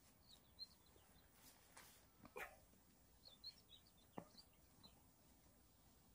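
Near silence outdoors, with faint short bird chirps now and then and a few soft clicks.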